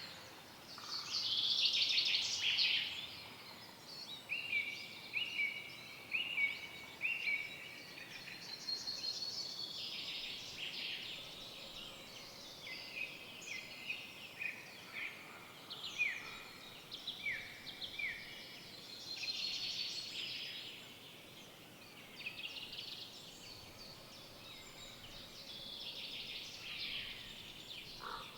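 Several songbirds singing in a forest, their phrases overlapping and coming one after another. Around five seconds in, one bird gives a run of four repeated down-slurred notes.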